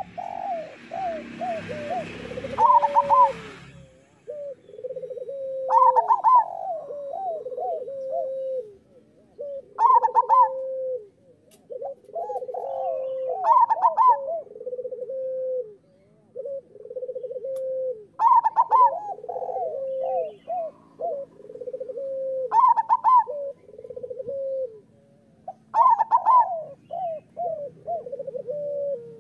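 Zebra dove (perkutut) singing its cooing song. Each phrase opens with a loud, higher note and is followed by a run of lower, rolling coos, repeated about every four seconds. A brief hiss of noise sits under the first few seconds.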